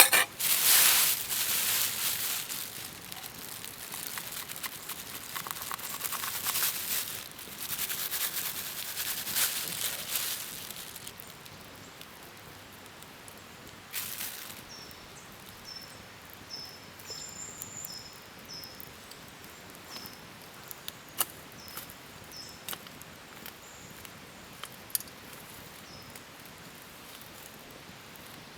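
Rustling and handling noise for the first ten seconds or so, then quieter outdoor ambience with scattered clicks and a small bird giving a run of short, high chirps about halfway through.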